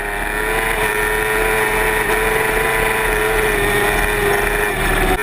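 Sportbike engine running at high, steady revs at speed, one held note with only a slight dip near the end.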